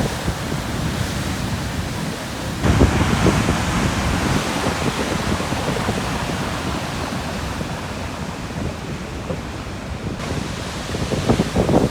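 Large ocean waves breaking on a rocky shore at high tide: a wave crashes about two and a half seconds in and churns away slowly, and another begins to break near the end, over a steady wash of surf.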